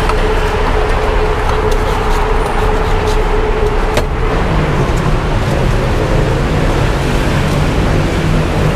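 Steady street traffic noise with a constant hum that stops with a click about four seconds in, after which a lower hum carries on.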